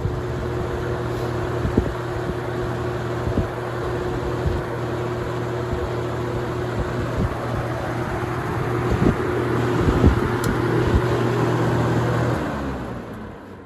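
Holmes HABF-20 box fan running on high: a steady motor hum under the rush of air from the blades, with a few soft knocks. Near the end the motor is switched off, its hum stops and the fan begins to spin down, the air noise fading.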